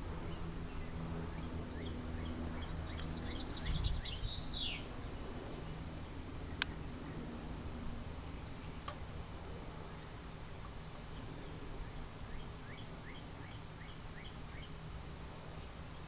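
Faint, short, high bird chirps scattered throughout, with a quick run of notes a few seconds in, over a low steady hum that fades by the middle. One sharp click about six and a half seconds in.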